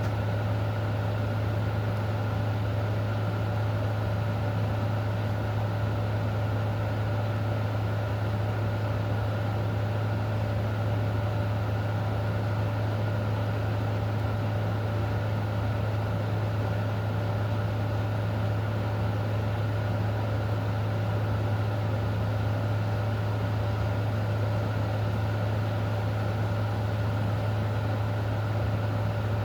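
A steady low mechanical hum with fainter steady higher tones over an even hiss, unchanging throughout.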